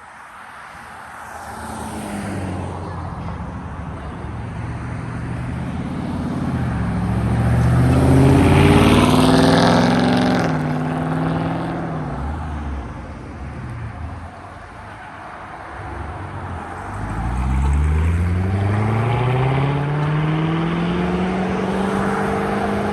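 Performance car engines accelerating away. One car's engine builds up and passes loudest about a third of the way in, then its pitch drops off. A second car revs up hard from low pitch near the end and holds high revs.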